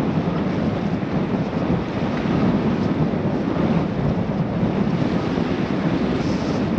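Wind rushing over the microphone of a moving bike's camera: a steady low rumble.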